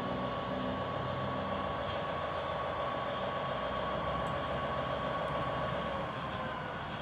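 Lionel RailSounds diesel engine sound from a GP38 model locomotive's speaker, a steady idling drone with a faint whine.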